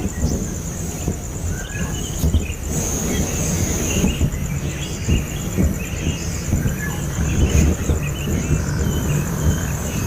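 Short, scattered chirps of a nestling bird over a steady, finely pulsing high trill like a cricket's, with a loud low rumbling noise underneath.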